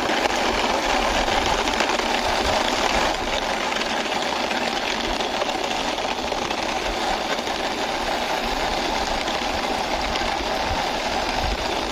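Toy tourist bus being pushed along by hand, its wheels making a steady rolling noise that dips slightly about three seconds in.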